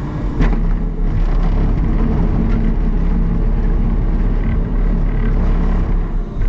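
Vehicle engine running steadily at a constant pitch, with one sharp knock about half a second in.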